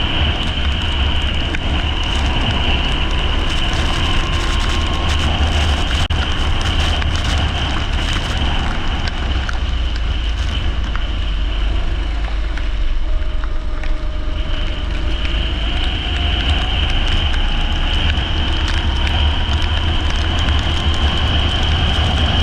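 Leisure go-kart engine running at racing speed on a wet track, its pitch rising and falling faintly with speed, under a heavy rumble of wind on the microphone and a constant hiss.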